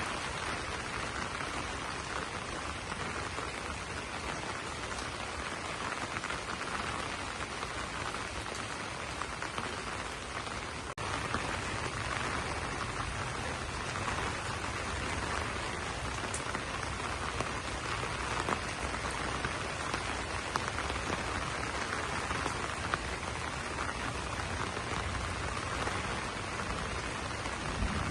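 Steady rain falling on banana leaves, an even hiss of drops, with a momentary break about eleven seconds in.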